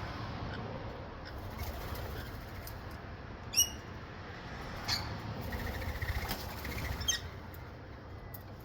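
Wild birds calling and moving about, with three short sharp calls. The loudest call comes about three and a half seconds in, and faint chirps sound in the middle of the stretch.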